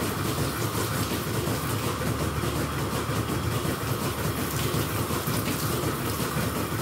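Milking shed plant running steadily, with water spraying as the milking cups are washed down after milking.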